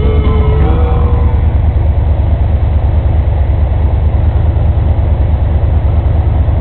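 A vehicle engine running with a steady, deep, pulsing rumble. Rock music fades out in the first second.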